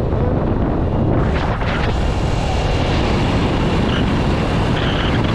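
Motorcycle on the move: a steady low engine and road rumble, with wind rushing over the microphone that grows stronger about a second in.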